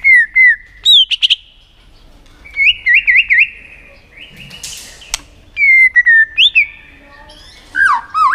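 White-rumped shama singing short whistled phrases of mostly down-slurred notes, with a quick run of rising-and-falling notes. About halfway through comes a harsh rasping call, followed by a sharp click.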